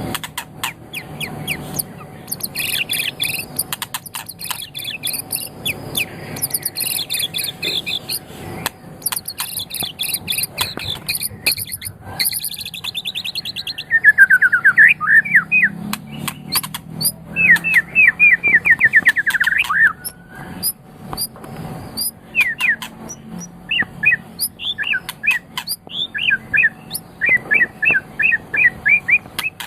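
White-rumped shama (murai batu) singing a long, varied song. It starts with fast, very high trills, moves to quick runs of sweeping notes about midway, and ends with short, sharp staccato notes.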